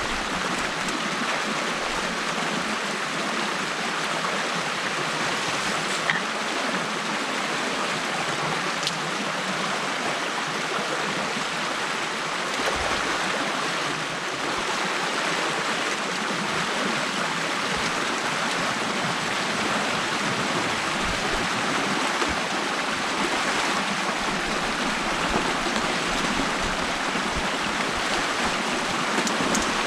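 Water rushing and gurgling steadily through a beaver dam opened up by hand, a continuous even flow.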